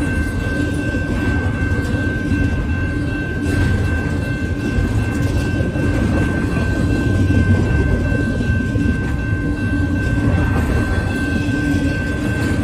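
Double-stack intermodal well cars rolling past: a steady, loud rumble of wheels on rail, with a steady high tone over it.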